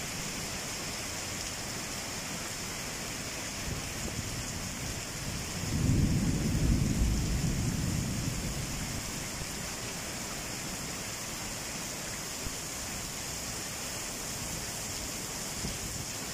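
Heavy rain pouring steadily onto wet paving, with a low rumble of thunder that swells about six seconds in and dies away over around three seconds.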